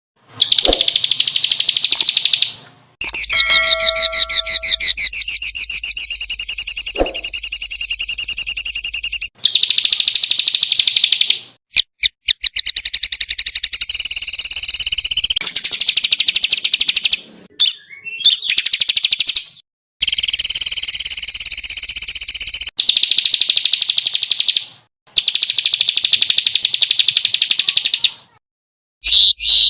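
Small songbirds singing rapid, high-pitched chattering trills in the fast-fire 'tembakan' style. The song comes as a string of spliced recordings, each few-second stretch stopping abruptly, with brief gaps between them.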